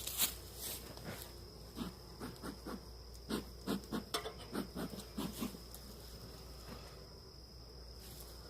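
A run of short, irregular soft taps and puffs for a few seconds, over a steady high-pitched chirring of insects that goes on throughout.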